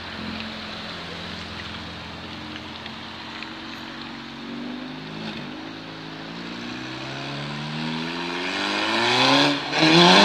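Car engines running as cars pull out of a roundabout, the engine note climbing over the last few seconds as one car accelerates hard past close by, with a brief dip just before it passes and the pitch falling as it goes by.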